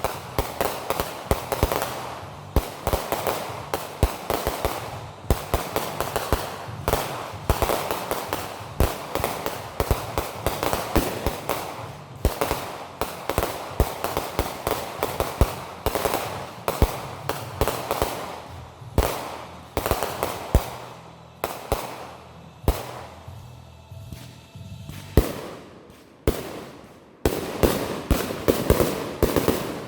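Fireworks going off in a dense, continuous run of rapid cracks and bangs, many per second. The cracks thin out for a few seconds late on, then come thick again near the end.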